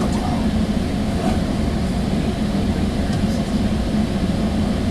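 Steady low rumble and hum inside a moving Sounder commuter-rail coach as the train runs along the track.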